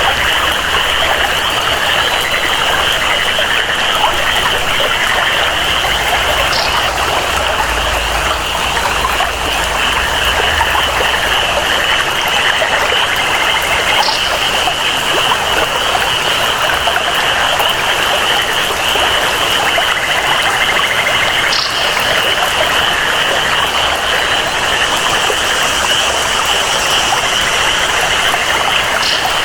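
Rainforest ambience: steady rain and flowing water under a continuous high-pitched jungle chorus of calling animals, with a brief high chirp about every seven or eight seconds.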